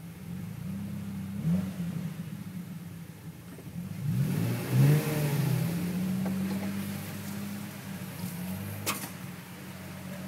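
Toyota FJ Cruiser's 4.0-litre V6 engine running and revving up and down during off-road driving, loudest about halfway through. A sharp knock comes near the end.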